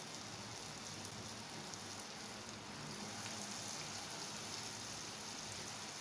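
Grated-potato tikkis sizzling steadily in hot oil in a shallow pan.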